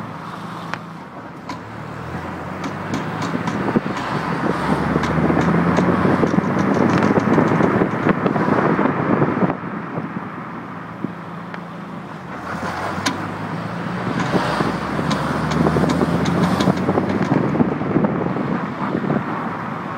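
BMW E30 325i's M20B25 straight-six pulling under hard acceleration twice, the engine getting louder as it climbs, with rapid sharp knocks and clunks during each pull. It is a knock of unknown origin that comes only when the throttle is floored and that the owner suspects is in the rear end.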